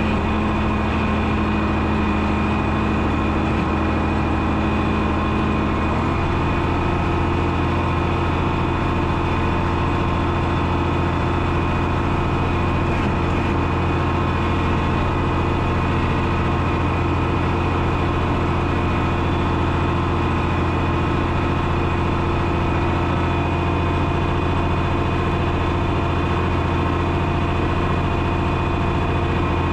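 The 1972 John Deere 6030 tractor's six-cylinder diesel engine running steadily, its note changing slightly about six seconds in.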